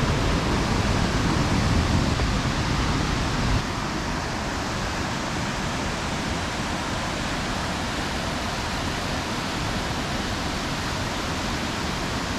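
Waterfall cascades rushing steadily. About three and a half seconds in, the sound cuts to a slightly quieter, steadier rush with less low rumble.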